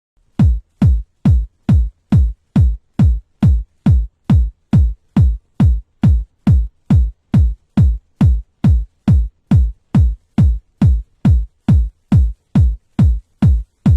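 Electronic dance track intro: a lone drum-machine kick drum on every beat, about two and a half hits a second, each a short thud that drops in pitch.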